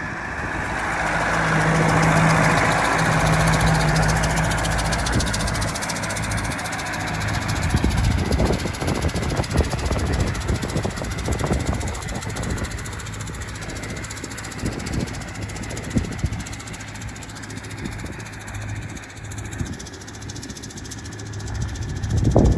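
Massey Ferguson 6255 tractor running past with a Vicon fertiliser spreader working on the back, loudest about two seconds in and then drawing away. Irregular low thumps and rumble follow as it moves off.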